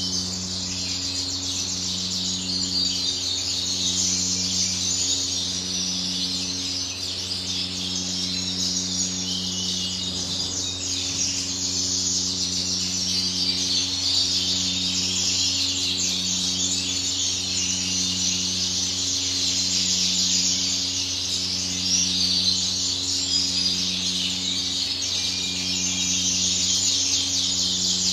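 Many caged canaries chirping and singing at once, a dense continuous twittering chorus. Underneath runs a steady low electrical hum with a low tone that pulses on and off about once a second.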